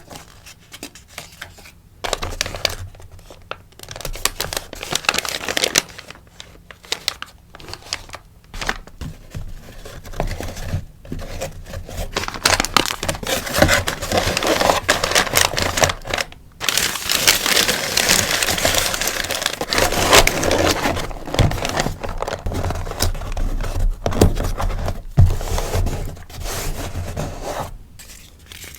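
Crinkly packaging rustling and crumpling as sticker orders are packed by hand, in irregular bursts with short pauses, busiest and loudest in the second half.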